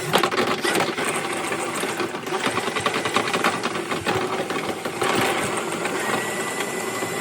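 A small motorised tool running with a fast, even rattle.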